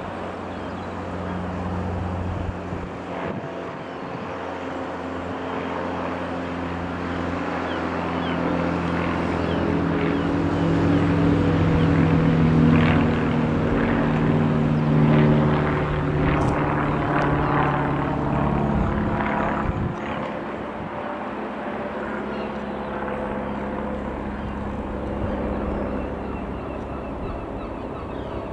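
Piper PA-28-180 Cherokee's four-cylinder piston engine and propeller flying past: the drone swells to its loudest about halfway through, then drops in pitch and fades as the plane moves away.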